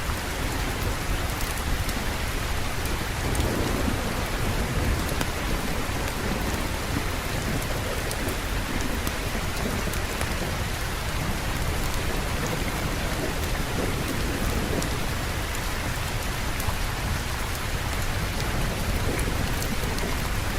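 Steady heavy rain falling on surfaces, with a soft low rumble of thunder swelling a few seconds in.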